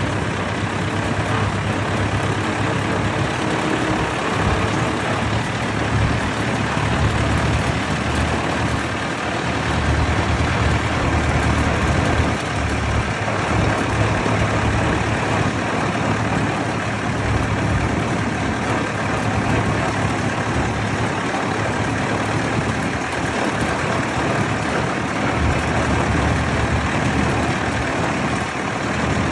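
Vintage tractor engine running steadily with a low, deep drone.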